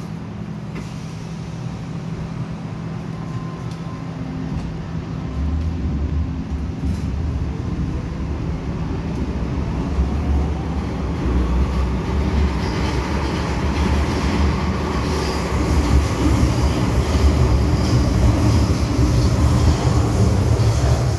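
MTR M-Train electric multiple unit running through an underground tunnel, its wheel and motor rumble growing steadily louder as it gathers speed, with a faint high whine joining in partway through.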